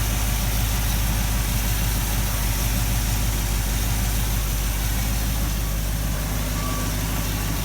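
Steady blowing of a Ford Thunderbird's cabin ventilation fan, heard from inside the car over the engine idling.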